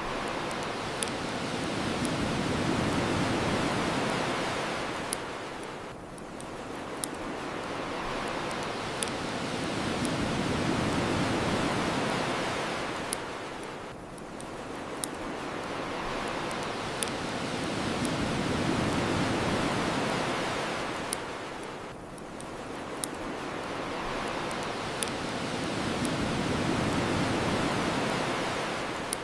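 Ocean waves washing onto the shore, each swelling and falling away about every eight seconds, with the sharp pops and crackles of a wood bonfire scattered over them.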